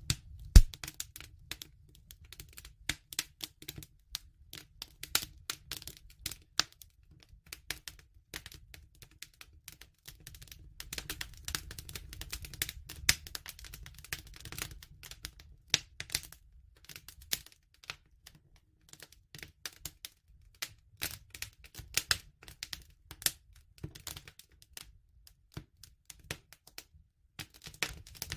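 Wood fire crackling, with irregular sharp snaps and pops over a low steady rumble; one loud pop about half a second in.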